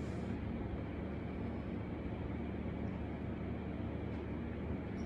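Steady low hum and hiss of background room noise, with no distinct sounds.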